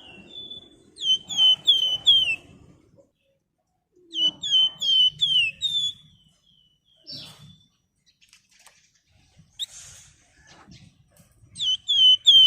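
A flamboyan songbird singing in three quick bursts, each of four or five sharp whistled notes that slur downward, with a few faint single notes between the bursts.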